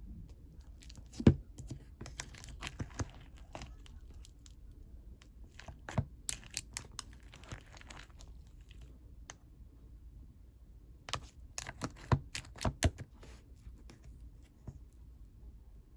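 Fluffy, squishy clay slime being squeezed and poked by hand, giving crackly clicks and pops in three bursts, with short pauses between them.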